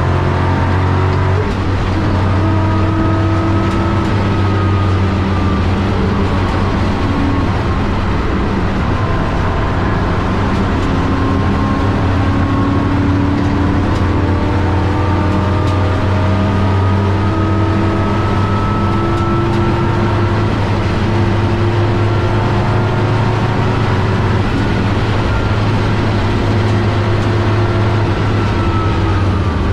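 Race car's engine heard from inside its stripped, caged cabin while lapping at speed, loud and continuous, its pitch slowly rising and falling over several seconds with changes in revs. A steady low drone and a wash of road and wind noise run underneath.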